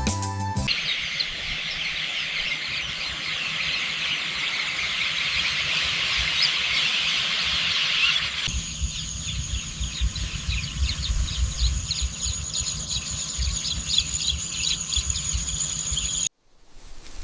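Countryside ambience: a dense, high chirping chorus of birds, with a low rumble underneath. About eight seconds in the sound changes abruptly and a steady high whine runs under the chirps, then everything cuts off just before the end. A few moments of background music open it.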